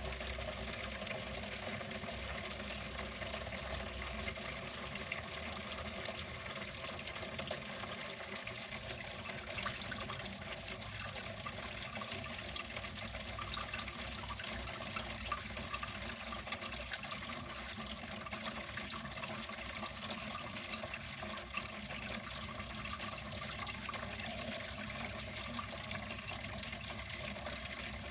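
Water flowing steadily, an even, continuous splashing.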